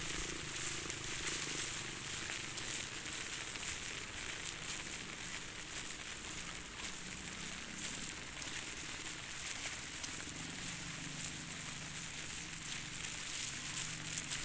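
Steady rainfall: a continuous hiss dotted with many small drop ticks.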